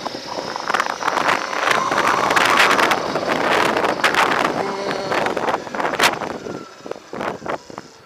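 Wind buffeting the microphone of a rider on a moving electric motorcycle: a loud, gusty rush that eases off near the end.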